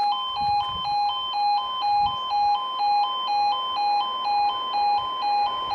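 Level crossing audible warning alarm sounding: two electronic tones alternating about twice a second, signalling that a train is approaching and the crossing is closing.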